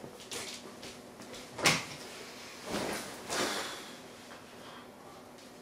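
A sharp knock, then two softer thumps a second or so later, like something being handled or shut.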